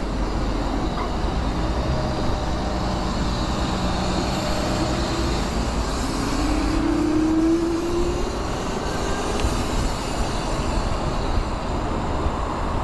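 Steady wind rush and road noise while riding an electric scooter, heaviest in the low end. A short rising whine comes in about six to eight seconds in.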